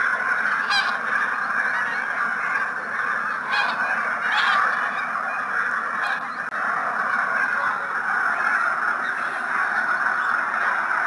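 A large flock of geese calling together in a dense, continuous chorus of honking.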